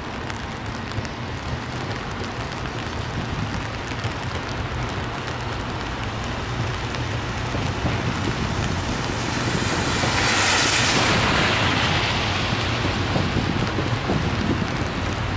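Steady rain falling on wet pavement and an umbrella, an even hiss with a low rumble underneath. About ten seconds in, a louder hiss swells for about two seconds, then eases back.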